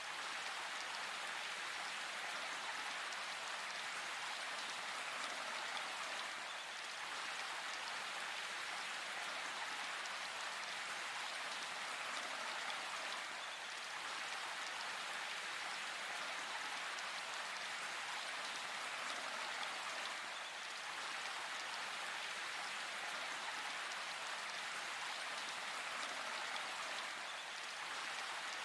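Steady rain falling in a forest, an even hiss of many drops with no thunder.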